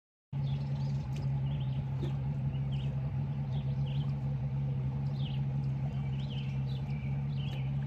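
Small birds chirping again and again over a steady low hum, starting abruptly a moment in.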